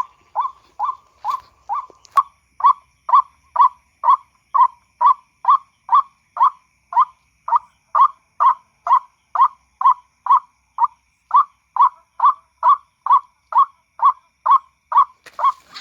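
White-breasted waterhen lure call: a monotonous series of short notes at one pitch, about two a second, the call used to draw the birds in. A single sharp click about two seconds in.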